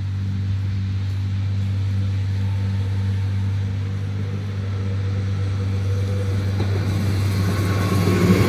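Steady low rumble as an RABe 520 electric multiple unit approaches a level crossing, growing louder over the last couple of seconds as the train nears, with a thin wheel-on-rail whine coming in near the end.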